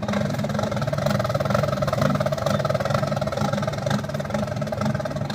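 Canon laser printer's drive mechanism running at power-on with a loud, steady rapid clatter, the 'khat khat' noise. This is a sign that something is catching inside the printer.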